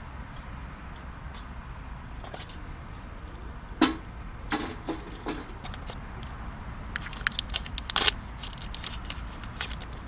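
Scattered sharp clicks and light metallic clinks, with a quick run of them about seven to eight seconds in, over a steady low rumble.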